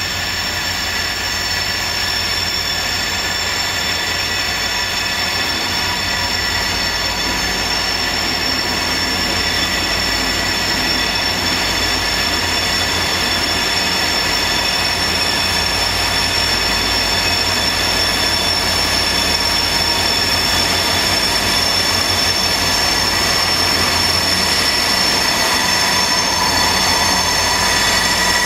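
A train, a steady rumbling noise with several high whining tones held throughout, slowly growing louder.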